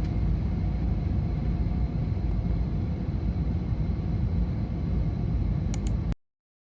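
Steady low vehicle rumble that cuts off suddenly about six seconds in.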